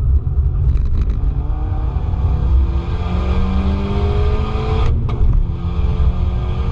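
Car engine accelerating hard, its pitch rising steadily, with a brief break about five seconds in as it shifts up and then climbs again from a lower pitch. Heavy low rumble from wind and road runs underneath.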